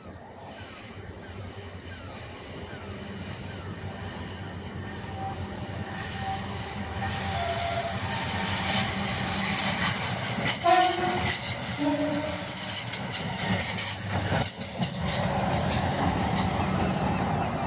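Class 375 Electrostar electric multiple unit approaching, growing steadily louder, with a high steady squeal. About eleven seconds in it sounds a short high horn note, then a lower one a second later: the two tones of its horn, the high 'whistle' and the low 'horn'.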